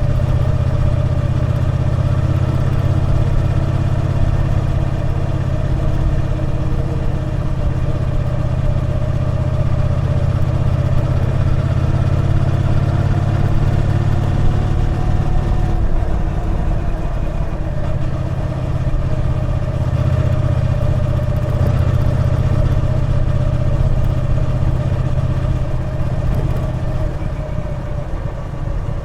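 Triumph Bonneville T120's 1200 cc parallel-twin engine running under way. The engine note climbs a little, drops about halfway through, then holds steady.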